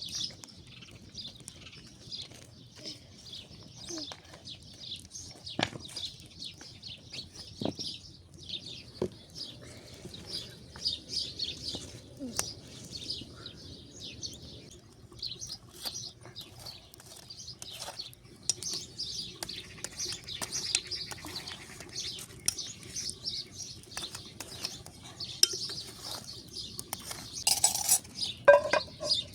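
Small birds chirping and singing without pause, with a few sharp clinks and knocks of cooking utensils or dishes, louder and more frequent near the end.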